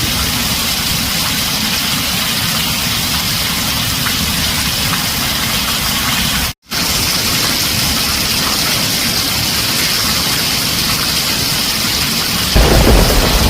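Heavy rain on a tin roof, a dense steady hiss with a deep low rumble underneath. It cuts out for a split second about halfway through. Near the end a louder deep rumble of thunder comes in.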